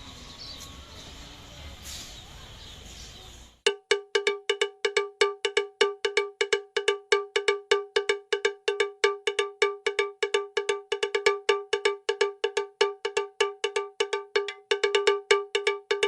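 Faint outdoor background with a few high chirps, cut off suddenly about three and a half seconds in by a small metal bell. The bell is struck rapidly and steadily, several strikes a second, always at the same pitch.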